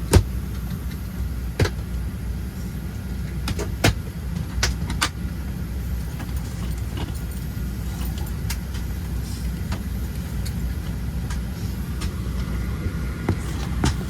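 Boeing 737-700 cabin at the gate: a steady low rumble of air-conditioning airflow with a faint high whine, broken by irregular sharp clicks and knocks from the cabin.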